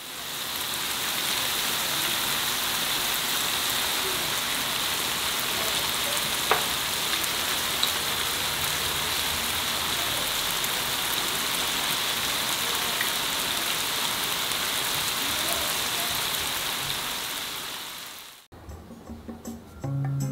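Spicy marinated duck bulgogi sizzling steadily in a hot electric grill pan, an even hiss with an occasional small crackle. It stops suddenly shortly before the end.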